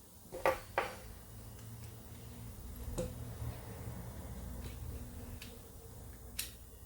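Sharp clicks and knocks of a clock movement being handled and set into clock mechanism holders: two quick clicks near the start, then single clicks every second or so over a low hum.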